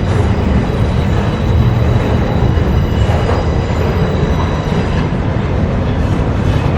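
Freight train cars rolling past on steel rails: a steady, heavy rumble of wheels on track, with a faint high squeal from the wheels.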